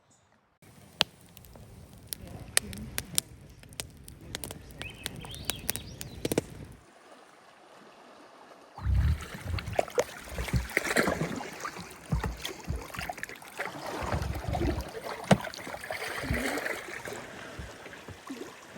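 Kayak paddling: water splashing and dripping off the paddle, with sharp clicks and knocks. It drops away briefly past the middle, then comes back louder with low rumbling and splashing.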